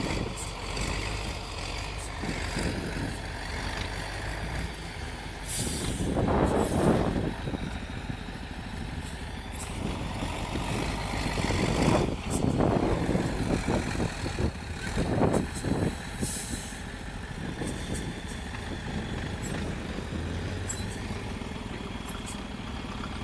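Off-road trial truck's diesel engine working on the course, surging in loudness several times as it is revved under load. Two short hisses of compressed air from the air brakes come about 5 s in and again near 16 s.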